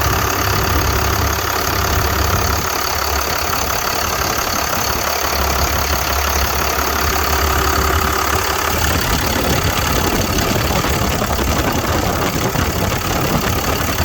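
Cummins diesel engine of a 1999 Freightliner FL50 rescue pumper truck idling steadily.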